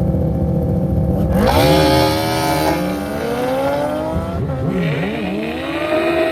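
Drag-race car engine running with a steady low rumble, then revved hard from about a second and a half in, its pitch climbing and dropping several times.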